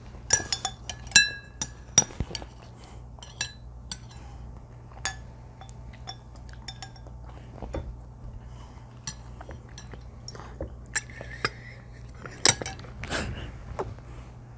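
Light clinks and taps of tableware, irregular and scattered throughout, several with a brief ringing tone, as of a utensil against a cup or dish while eating.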